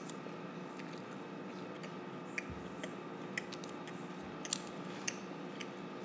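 A child chewing food with her mouth closed, with a few faint wet mouth clicks over a steady background hum.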